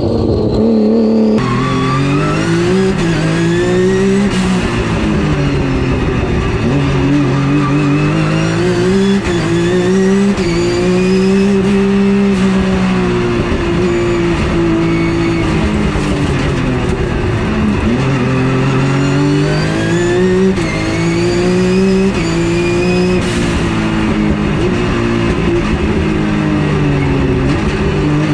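Porsche 911 GT3 Cup race car's flat-six engine at racing speed, revs climbing and dropping back again and again as it accelerates hard and lifts or shifts.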